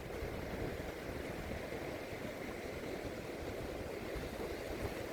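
Sea surf washing onto a beach: a steady rushing noise with no break.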